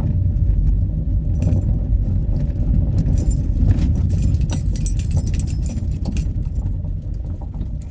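Steady low road and engine rumble inside a moving Fiat Doblo van, with light metallic jingling and small rattles, mostly between about three and six seconds in.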